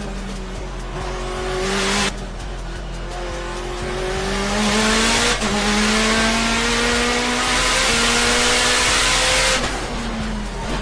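Shelby GT500 V8 accelerating hard, its pitch rising in three pulls with quick upshifts about two and five and a half seconds in, then backing off near the end.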